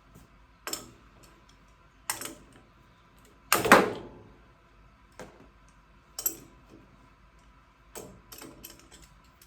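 Scattered sharp clicks and knocks of handling on the work, about six in all, the loudest a clank about three and a half seconds in with a short ringing tail.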